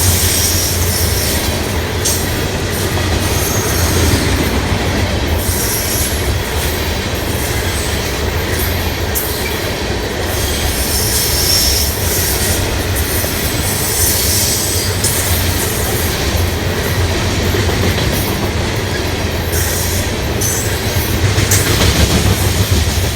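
Freight train of ethanol tank cars rolling past at a steady speed, steel wheels running on the rails with brief high-pitched wheel squeals now and then.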